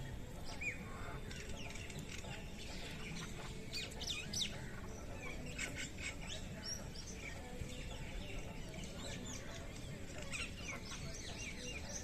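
Small birds chirping and calling, short high notes scattered all through, with a quick run of repeated notes near the end, over a steady low rumble of outdoor noise.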